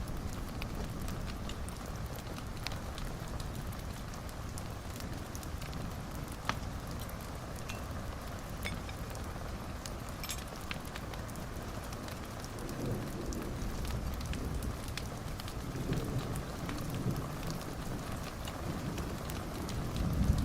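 Wood fire burning in a fireplace: a steady low rush with scattered sharp crackles and pops. A low rumble swells in and out through the second half.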